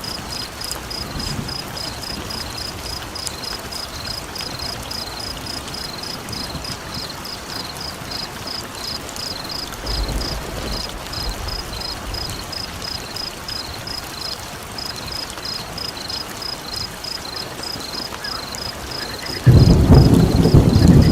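Steady rain with a high-pitched chirping repeating about three times a second. A low roll of thunder comes about halfway through, and a much louder thunderclap breaks in suddenly near the end.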